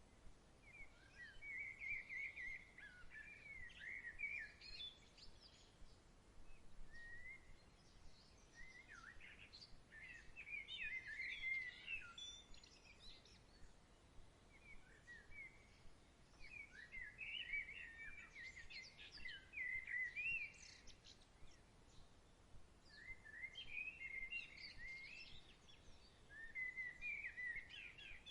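Songbirds singing faintly in bouts of quick chirping, warbling phrases a few seconds long with short pauses between, over a faint steady background hiss.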